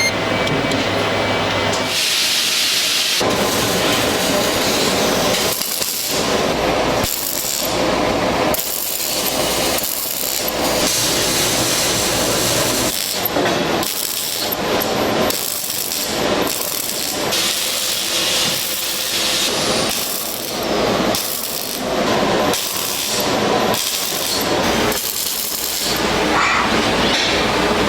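Metalworking tools at work: a run of separate rasping strokes, irregularly spaced at roughly one a second.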